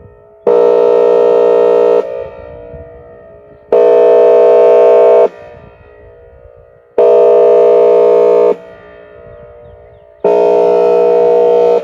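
Outdoor warning siren sounding its airhorn signal for a tornado drill: four loud, steady horn blasts of about a second and a half each, roughly three seconds apart. Each blast echoes and fades away before the next.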